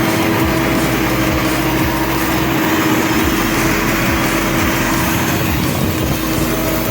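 Heavy diesel truck engine running steadily, with an even engine tone throughout.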